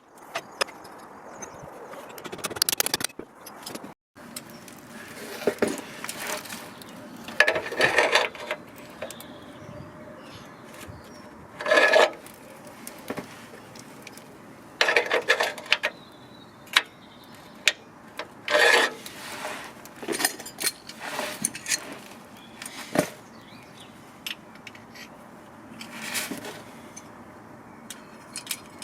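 Irregular knocks, clinks and scraping of hand work on hard materials, with several louder scrapes lasting about half a second each.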